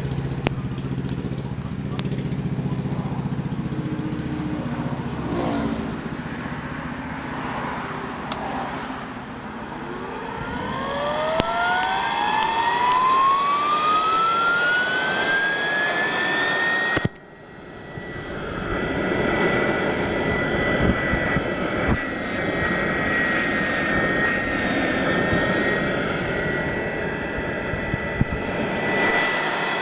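Ring blower (side-channel regenerative blower) spinning up: its whine rises steadily in pitch, then settles into a steady high whine at full speed. About 17 seconds in, the sound cuts out abruptly for a moment and then builds back up.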